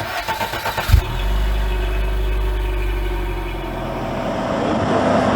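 Tatra 813 8x8 truck's air-cooled V12 diesel running under load, with rapid pulsing in the first second and a heavy thump about a second in, then a steady deep drone that eases slightly and grows louder and rougher near the end.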